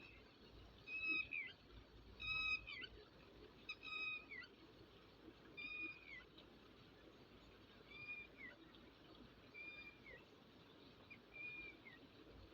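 An animal calling over and over: about eight high, drawn-out calls, each a held note that drops quickly at the end, roughly every one and a half to two seconds. The calls are loudest in the first few seconds and fainter after that.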